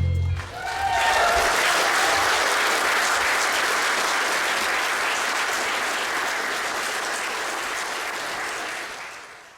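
Audience applauding and cheering after the song's final chord, which cuts off about half a second in; a few brief whoops rise over the clapping early on, and the applause fades out near the end.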